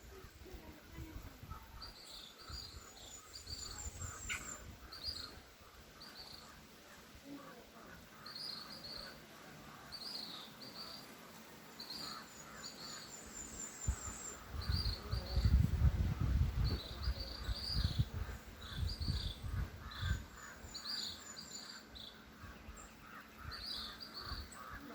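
Birds chirping in short repeated calls about once a second, over a steady chorus of insects with fast ticking trills. A low rumble rises in the middle and is the loudest part.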